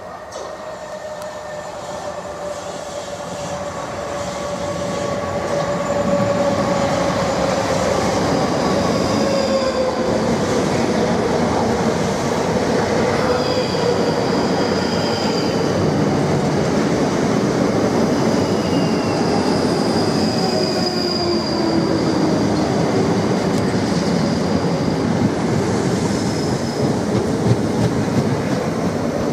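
Suburban electric multiple-unit trains running through a station, two passing each other on adjacent tracks. Rail and wheel noise builds over the first few seconds and then stays loud, with a motor whine that falls slowly in pitch and thin high wheel squeals.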